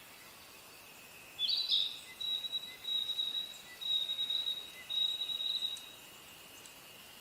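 A bird calls about a second and a half in: a high trilling note held for about four seconds in several pulses. Behind it runs a steady, high insect drone.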